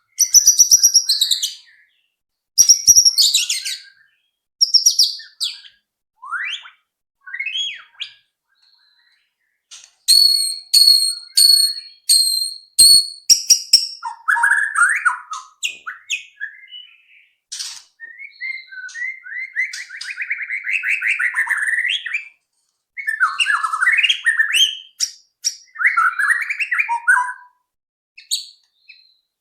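White-rumped shama (murai batu) song: a string of separate phrases of clear whistles and sharp chips, some high and ringing, with a run of quick repeated notes partway through and lower, warbling trills in the second half. It is a lure recording played to prompt a caged murai batu to sing.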